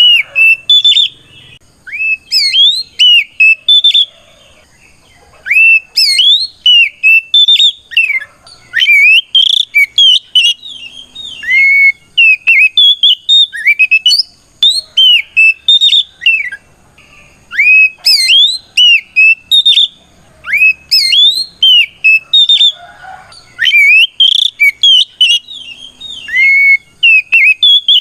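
Oriental magpie-robin singing loudly in its full challenge song, calling out a rival. Phrases of clear whistled notes sweep up and down, with short pauses between them.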